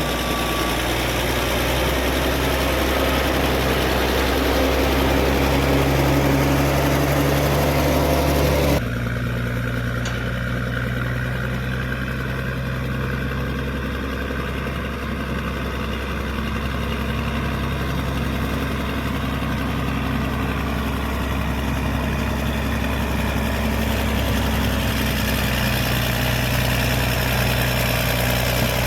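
Caterpillar D6D bulldozer's diesel engine running steadily. About nine seconds in the sound changes abruptly to a quieter, lower engine note with less hiss.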